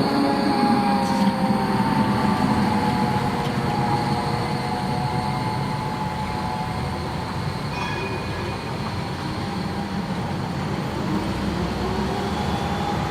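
Tram running on the rails, its wheels squealing in several thin, slightly wavering high tones over a steady rumble. The sound eases a little after the middle.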